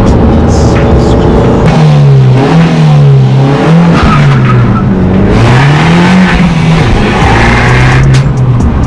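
Abarth 500 EsseEsse's turbocharged 1.4-litre four-cylinder engine and sport exhaust, loud, its pitch climbing and dropping several times as the car is driven hard.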